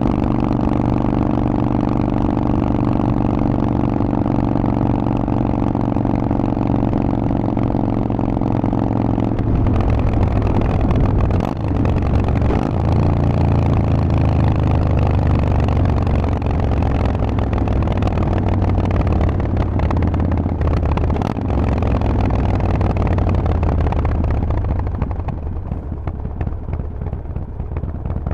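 Harley-Davidson Forty-Eight's 1200 cc V-twin running through a Vance & Hines exhaust, holding a steady pitch at constant speed. About ten seconds in, the sound turns rougher. From there the engine's pitch falls slowly and the sound gets a little quieter towards the end as the revs drop.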